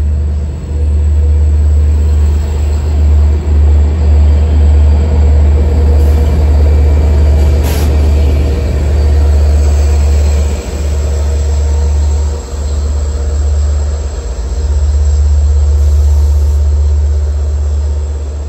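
Long Island Rail Road diesel locomotive and bi-level coaches pulling in alongside the platform, with a heavy low rumble throughout. A single sharp clank comes about eight seconds in.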